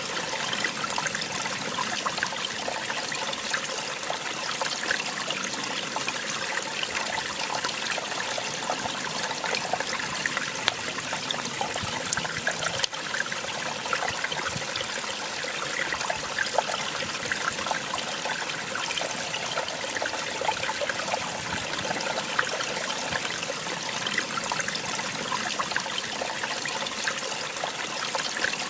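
Small waterfall splashing steadily: an even hiss of falling water, flecked with many small splashes and trickles.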